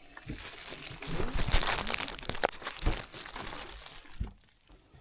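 Plastic packaging crinkling and rustling as it is handled, with a few sharp clicks, loudest in the middle and stopping about four seconds in.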